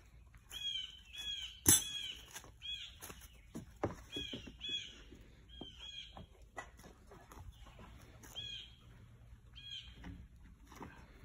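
A bird calling over and over in short chirps, roughly once a second, with a few sharp knocks among them, the loudest about two seconds in.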